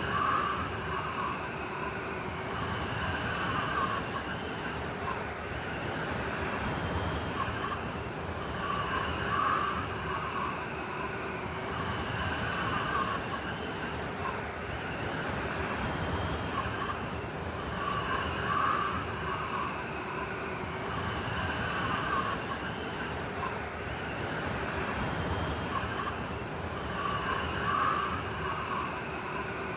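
Blizzard wind blowing steadily, with a wavering, whistling howl that swells about every nine seconds.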